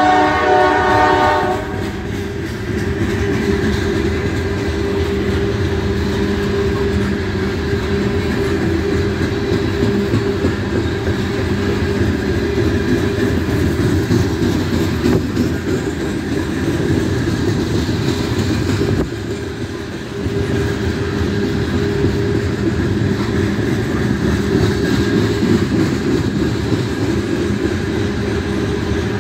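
A freight locomotive's multi-tone horn sounds and cuts off about a second and a half in. Then coal hopper cars roll past at speed with a steady low rumble and wheel clatter on the rails.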